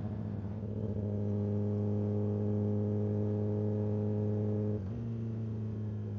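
Kawasaki ZX-10R's inline-four engine running at steady cruising revs. It gets a little louder about a second in and eases back near the five-second mark.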